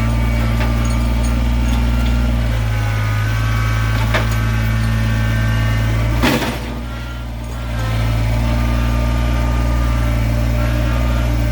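Stihl Farm Boss two-stroke chainsaw running at steady high speed while cutting firewood logs. About six seconds in there is a sharp knock and the saw's sound drops for over a second, then comes back up to full speed.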